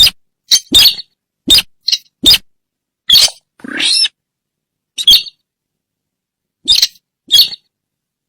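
Lure recording of the sintar bird's call: a string of loud, short, harsh calls at irregular intervals, about eleven of them, with one longer drawn-out call near the middle.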